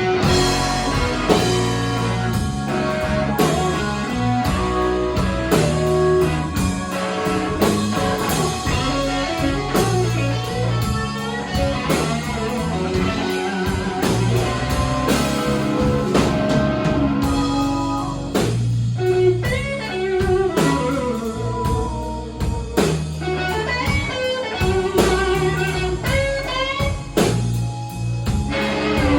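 A blues band plays a slow blues: an electric guitar leads with bent notes over bass and drum kit, with no singing.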